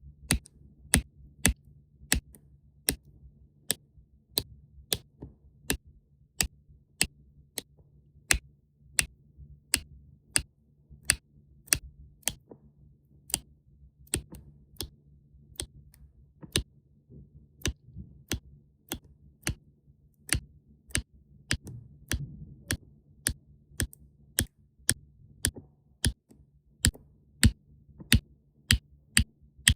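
Diamond-painting pen tapping resin diamonds onto the canvas: sharp little clicks, about two a second, with a few short pauses, over a faint low hum.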